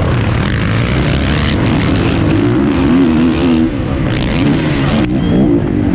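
Four-stroke 450cc motocross bike engine running, its revs rising and falling, with a brief dip a little after halfway.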